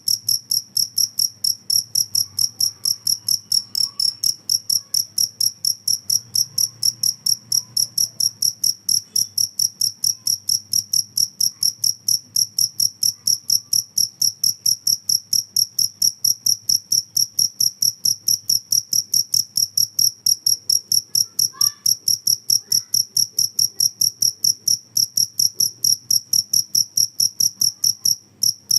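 Two-spotted field cricket (jangkrik kalung) chirping: a loud, high, evenly pulsed chirp, about three to four chirps a second, that stops just before the end.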